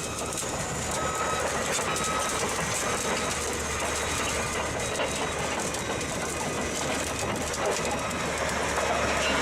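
Caterpillar bulldozer running, its engine rumbling steadily under a continuous clanking and rattling of its steel tracks.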